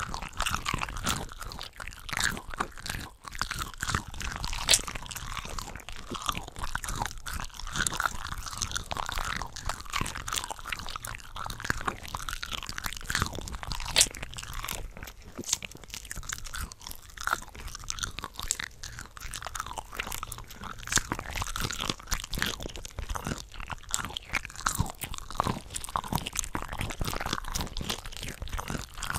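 Close-miked eating of cocktail shrimp, with several eating tracks layered over one another. It makes a dense, continuous run of wet chewing, crisp crunches and bites, with sharper bites at about 5, 14 and 21 seconds.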